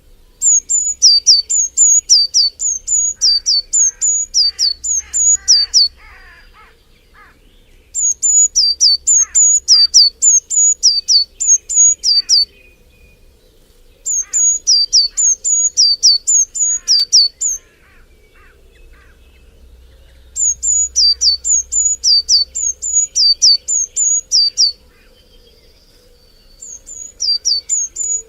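A songbird singing a high, fast, repeated two-note phrase in bouts of about five seconds, with short pauses between, five bouts in all. Fainter calls of other birds sound underneath.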